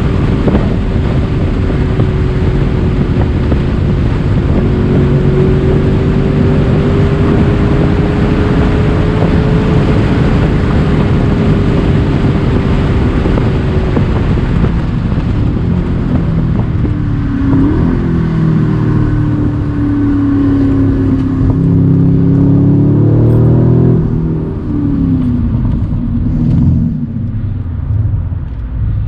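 Mercedes-AMG C63 Cabriolet's twin-turbo V8 running at high Autobahn speed with heavy wind rush through the open top. About halfway through the engine note falls as the car slows, stepping with gear changes around two-thirds through and again near the end, and the wind noise fades.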